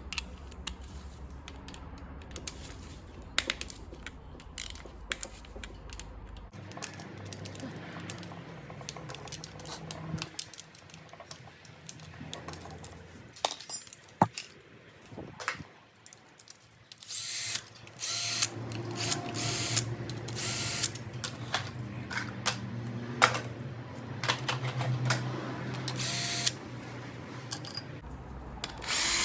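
Scattered clicks and clinks of tools on metal, then, from a little past halfway, a power drill-driver running in several short bursts of about a second each, undoing the water pump bolts with an 8 mm socket.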